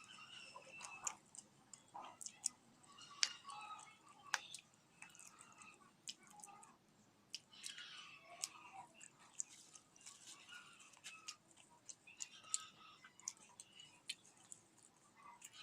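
A person eating close to the microphone: quiet chewing with many small irregular mouth clicks and crunches.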